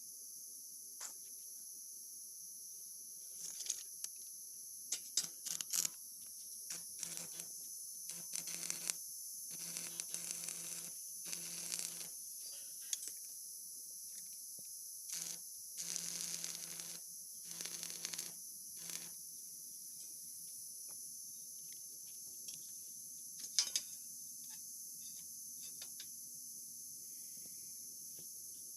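Steady high-pitched cricket chirring, with scattered clicks and several short noisy bursts over it for the first two-thirds.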